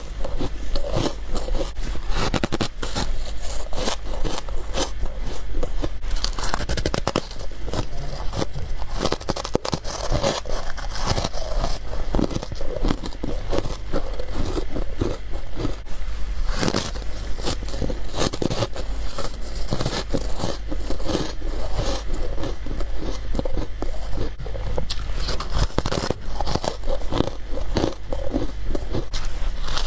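Frost and ice from a freezer being bitten and chewed close to the microphone: a rapid, unbroken run of crisp crunches. A steady low hum lies underneath.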